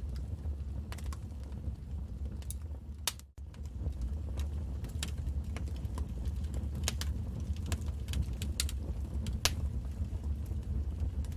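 Wood fire burning in a fireplace: irregular sharp crackles and pops over a steady low rumble. The sound briefly drops out about three seconds in.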